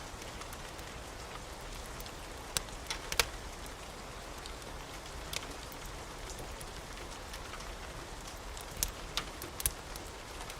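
Steady rain hiss with scattered sharp pops and crackles from a wood fire, a few in a cluster early on and more near the end.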